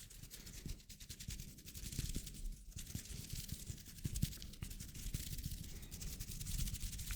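Close-miked hand sounds: rubbing and rapid soft crackling, with a few soft low taps.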